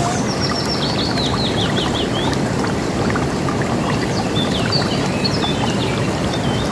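River water rushing steadily, with birds chirping over it: a quick run of downward-slurred notes in the first two seconds or so, then scattered higher chirps later on.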